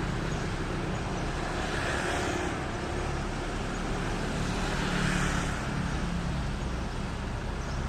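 Steady outdoor background noise like distant road traffic, swelling twice, about two and five seconds in, as if vehicles were passing.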